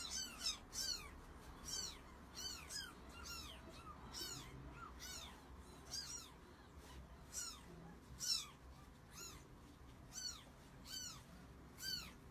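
A kitten mewing over and over: short, high-pitched, faint mews that each fall in pitch, about two a second.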